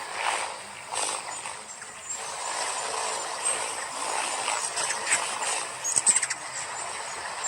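Hummingbirds flying: a whirring buzz of wings with a few short, very high chirps and sharp clicks.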